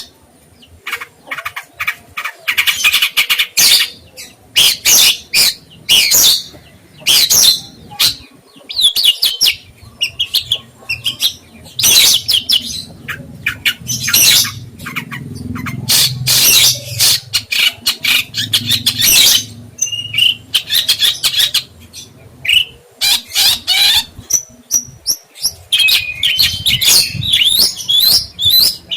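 A songbird singing energetically: rapid runs of sharp, high chirps and trills, phrase after phrase with short pauses between.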